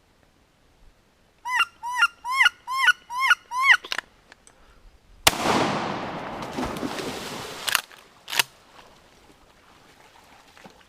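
A quick run of about eight rising-and-falling wood duck squeals. About five seconds in comes a single 12-gauge-style shotgun blast, with a long echoing tail that fades over a couple of seconds. Two sharp clicks follow.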